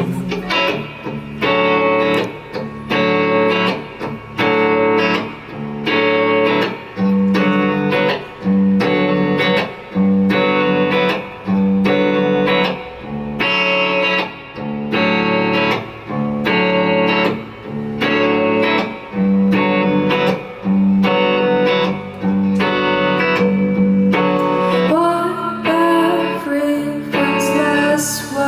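Live indie band playing, led by guitar chords strummed in a steady repeating rhythm.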